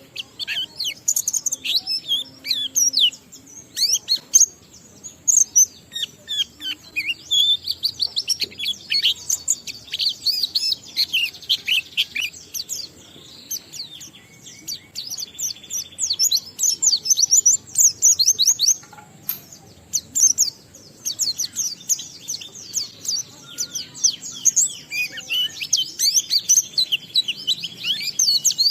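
White-eye (pleci) singing a long, continuous run of rapid high chirps and warbles, the 'ngalas' style of song, with brief pauses around the middle.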